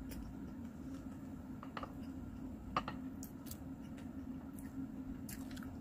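Mouth sounds of a person eating: a scatter of small wet clicks and smacks, the sharpest one near the middle, over a steady low hum.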